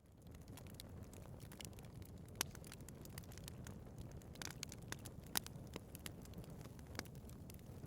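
Wood fire burning in a fireplace: a steady low rumble with frequent sharp crackles and pops, the loudest snaps about two and a half and five and a half seconds in.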